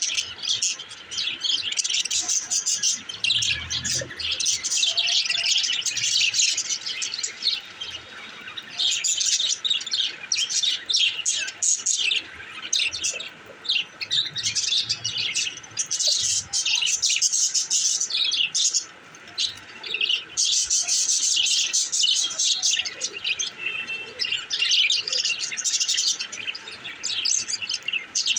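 Budgerigars chirping and chattering in a rapid, continuous stream of high chirps, with a few short lulls.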